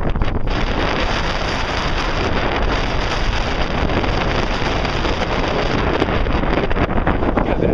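Strong wind buffeting the microphone: a loud, steady rush that rises and falls slightly in gusts, with no distinct knocks or tones.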